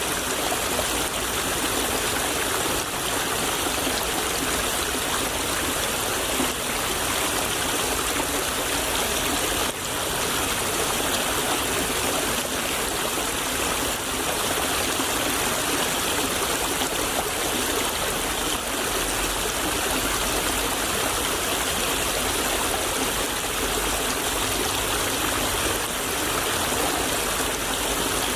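Shallow stream flowing and babbling over stones in a steady, even rush.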